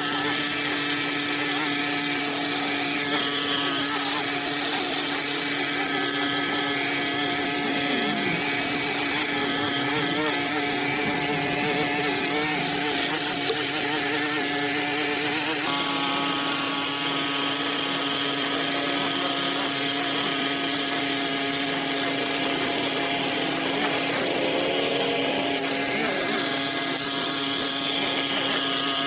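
Pressure washer running steadily: a constant motor hum with the hiss of the water spray over it.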